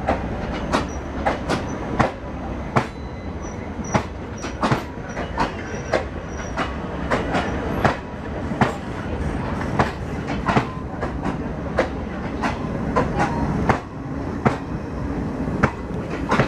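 Passenger train running past at close range on the adjacent track: a steady rumble with sharp clacks of the wheels over rail joints, about two a second. A faint, broken high wheel squeal comes through in the first half.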